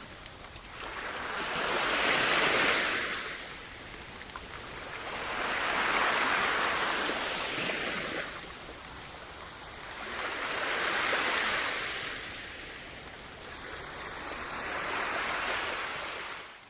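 Sea waves breaking and washing up a beach, the surf swelling and falling back four times, about every four seconds, and fading out at the very end.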